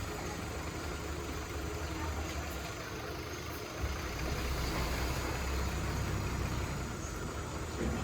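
Heavy machinery's diesel engine running steadily at low revs. It drops away briefly a little under four seconds in, then picks up again slightly louder.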